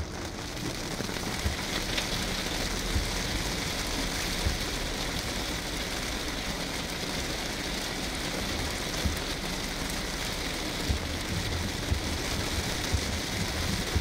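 Heavy rain pelting a car's roof and windshield, heard from inside the cabin as a dense steady hiss, with occasional short knocks.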